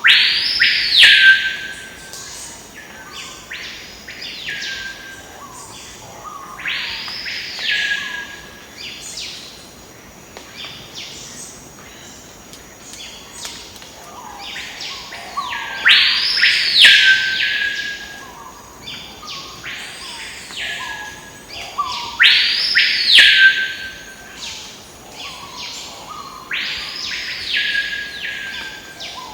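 A bird calling repeatedly. Each call is a loud whistle that sweeps up and falls back, ending on a briefly held lower note, and repeats every few seconds, with fainter, shorter calls in between.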